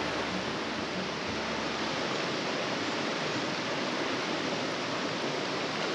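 Steady rush of a river flowing over rocks, an even hiss that holds at one level throughout.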